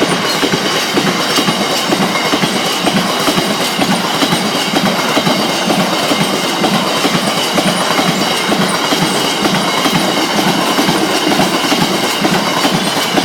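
Wagons of a biomass freight train rolling past, wheels clacking over the rail joints in a steady, even rhythm.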